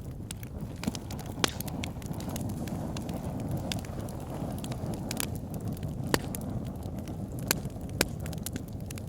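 Wood fire burning in a log burner: a steady low rush of flame with constant small crackles and four sharp pops from the logs.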